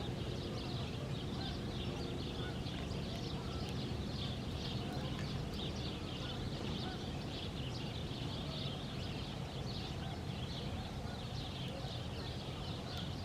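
A flock of birds calling and chattering continuously, many short high calls overlapping, over a steady low rumble.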